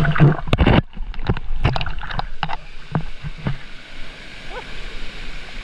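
Mountain bike clattering over rough ground: sharp knocks in the first second, then scattered rattles, over a steady rush of wind on the microphone.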